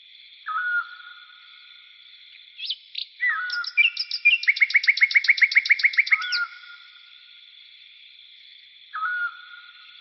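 Songbirds singing: a short call near the start, a longer song in the middle ending in a fast trill of about six notes a second, and another short call near the end. A steady high hiss runs behind them.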